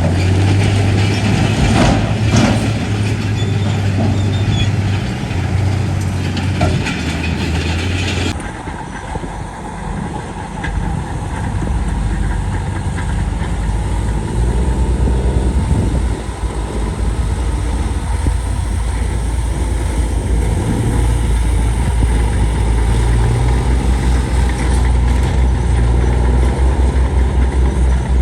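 Heavy diesel engines of earthmoving machinery running, with a few knocks in the first couple of seconds. About eight seconds in the sound changes abruptly to a deeper, duller engine sound.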